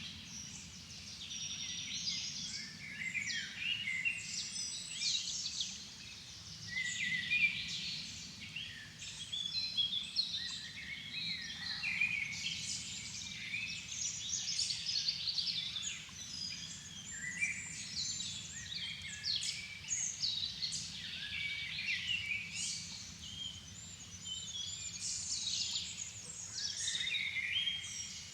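A dusk chorus of many songbirds singing at once, with overlapping whistled phrases and rapid trills that never pause.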